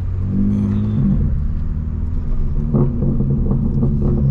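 Straight-piped BMW M4 Competition's twin-turbo inline-six running at low revs while driving, a deep steady exhaust drone whose pitch shifts briefly about a second in.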